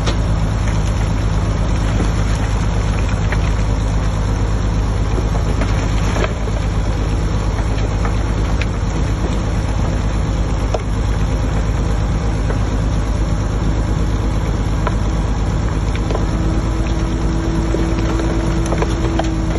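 Diesel engine of heavy earthmoving machinery running steadily, with a few short knocks, and a steady whine coming in near the end.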